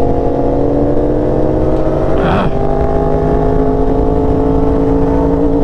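Motorcycle engine running loud and steady under way, its pitch climbing slowly as it gathers speed, with a short burst of noise about two seconds in.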